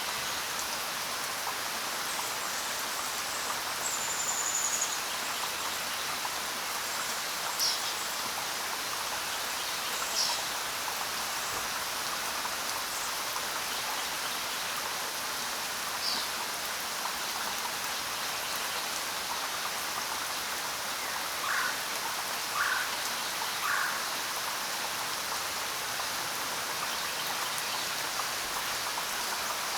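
Steady rain falling with a constant patter, and a bird calling now and then over it: a few short, high, falling chirps, then three lower notes close together past the middle.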